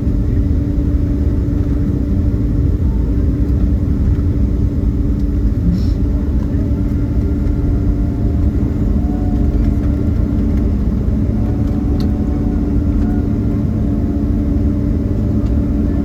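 Steady cabin rumble inside a Boeing 767-332ER rolling on the ground after landing, with a constant engine hum and faint whines that shift slightly in pitch.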